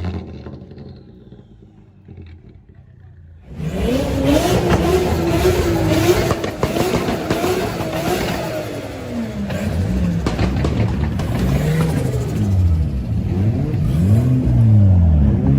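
A car engine revving loudly, starting suddenly about three and a half seconds in, held high at first and then blipped so the revs fall and rise again several times.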